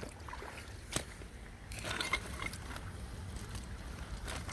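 A bag of collected glass and stoneware bottles being set down and handled: a sharp knock about a second in, then rustling and a few small clinks, over a low steady rumble.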